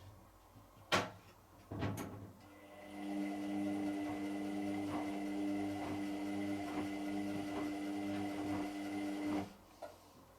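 Hotpoint WMXTF742K washing machine in operation: two clicks, then a motor running with a steady hum and a faint regular ticking for about seven seconds before it stops suddenly.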